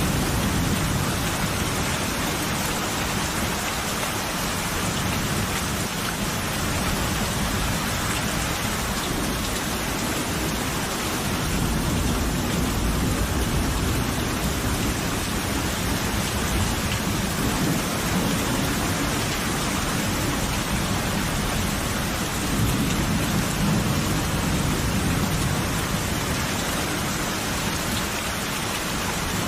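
Steady heavy rain with low rolling thunder that swells a couple of times, about eleven seconds in and again a little past the twenty-second mark.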